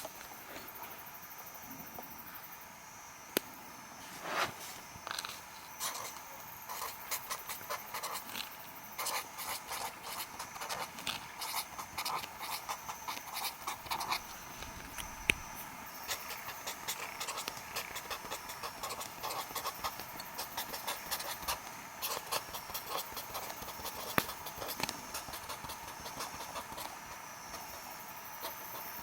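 Wood fire crackling with irregular sharp pops, over a steady chirring of insects.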